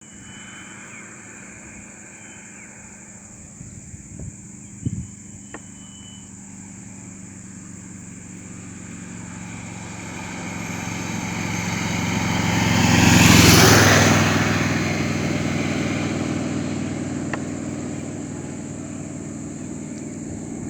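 A road vehicle passes close by, its engine and tyre noise swelling to a peak about two-thirds of the way through and then fading away, over the steady low hum of an engine running at idle.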